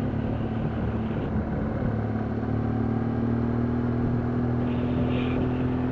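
Steady engine drone and road rumble of a moving vehicle, heard from inside the cabin.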